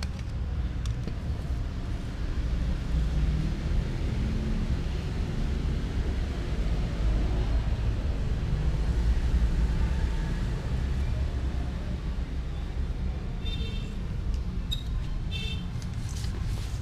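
Steady low rumble of background noise, like traffic, with a few short high-pitched chirps near the end.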